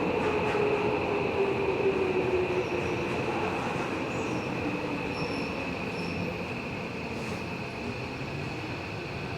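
Running noise inside a Tobu 70000 series electric train car. A motor tone glides down in pitch over the first three seconds and the sound eases off slightly, as the train slows. A steady high whine runs under the rumble of the wheels.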